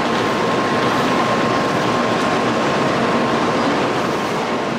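Steady running noise of a Shinkansen train standing at a station platform, with a steady high-pitched tone throughout.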